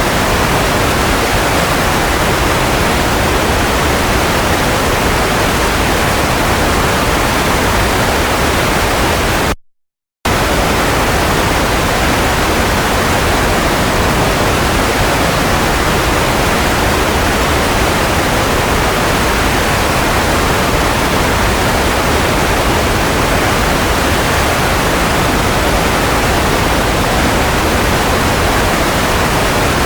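Steady white noise for baby sleep: an even, featureless hiss with no tones or rhythm. It cuts out completely for about half a second roughly a third of the way in, then resumes unchanged.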